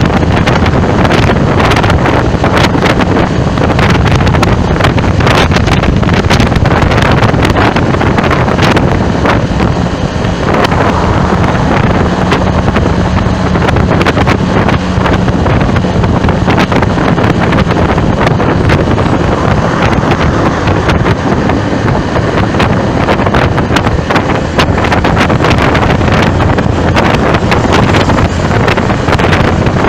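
Loud, steady wind buffeting the microphone, a constant rushing crackle, over traffic noise.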